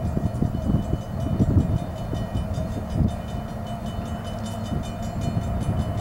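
Diesel freight locomotive leading a double-stack container train on approach: a steady low rumble of engine and wheels on the rails, with a few knocks in the first second and a half and one more about three seconds in.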